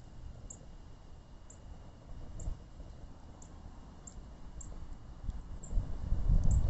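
Wood campfire burning, with a low uneven rumble that grows louder near the end and small high ticks about once a second.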